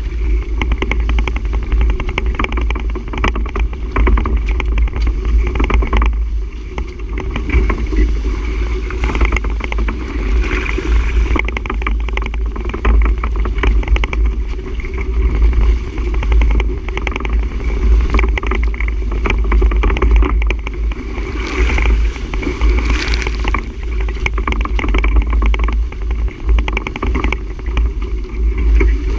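Wind buffeting the camera microphone in a heavy, fluttering rumble, over the rushing noise of a sailboat under way.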